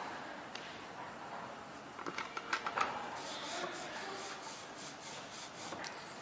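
Light clicks and knocks from hands working the strip cutter's feed guide with a sheet in place, the sharpest cluster about two seconds in. A faint steady high hiss follows.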